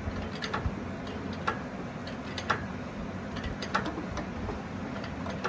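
Engine hoist being pumped to lift the engine, making light clicks about once a second over a low steady hum.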